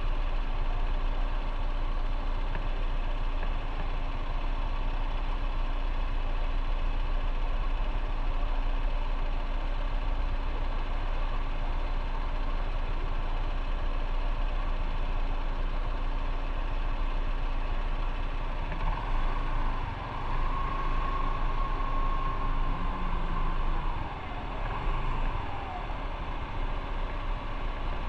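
Motorcycle running in road traffic, its engine and road noise steady. About two-thirds of the way through the sound changes and a high whine holds for a few seconds, then slides down.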